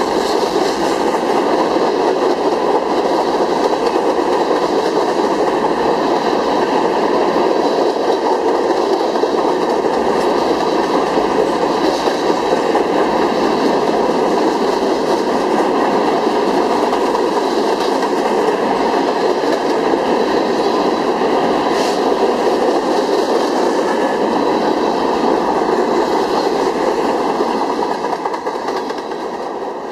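Covered hopper cars of a freight train rolling past close by: a steady rumble of steel wheels on rail with occasional clicks. It starts to fade near the end as the last car goes by.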